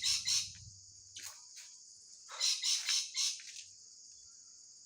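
Small birds chirping in quick repeated calls, in three clusters: at the start, around a second in, and from about two to three and a half seconds in, over a steady high hiss.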